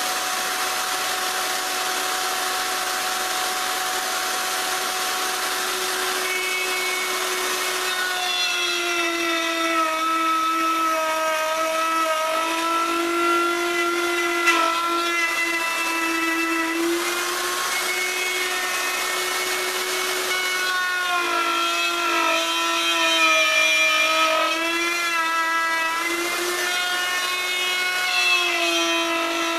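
Electric router running at high speed and cutting wood, its motor whine dipping and recovering in pitch as the bit takes load, from about eight seconds in.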